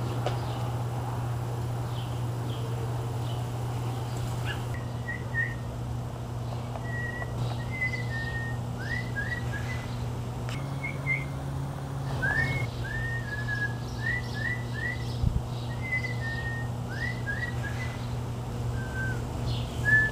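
A man whistling imitation bird calls: a string of short chirps and quick up-and-down slides, starting about five seconds in. A steady low hum runs underneath.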